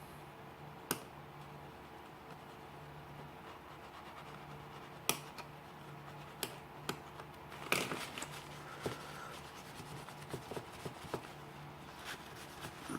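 Scattered sharp clicks and taps from the parts of a Leatherman Wingman multi-tool being handled during disassembly: a few single clicks, a cluster about eight seconds in, then a run of smaller ticks near the end. A steady low hum sits underneath.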